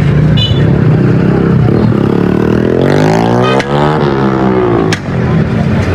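A motor vehicle engine running, its pitch rising about halfway through and then falling back, with a couple of sharp knocks.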